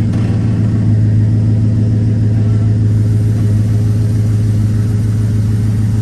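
Car engine running at a steady low idle, an even low hum with no revving, as the vehicle is moved in reverse.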